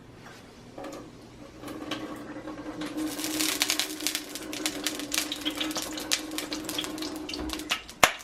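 Corn tortilla frying in a pan of hot oil: a dense crackling and popping of spattering oil that builds about three seconds in, over a steady hum, with one sharp knock near the end.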